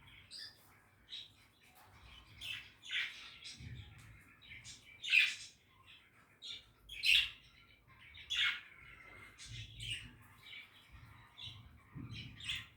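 Budgies chattering: a run of quick chirps, warbles and short squawks, loudest around the middle.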